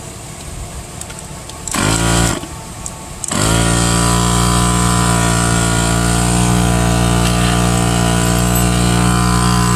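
Portable tire inflator's compressor set to pump a low tire, at 25 psi, up to 40 psi. It runs briefly for about half a second, stops, then starts again near a third of the way in and settles into a loud, steady run.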